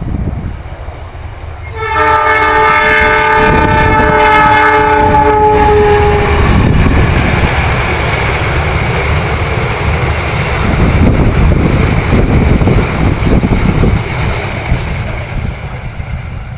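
A locomotive's multi-tone horn sounds one long blast, about two seconds in, lasting some four seconds, its pitch dipping slightly as it ends. The blast is followed by the loud rumble and wheel clatter of the Papandayan passenger train passing close by, fading near the end.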